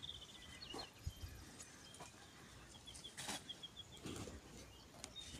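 Faint bird chirps, with a quick run of about seven short high notes a little over three seconds in. Soft scattered knocks and rustles come in between.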